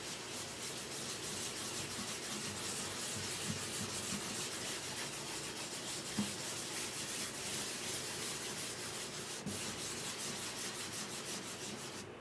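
Sandpaper rubbed on wood in quick, even back-and-forth strokes, stopping near the end.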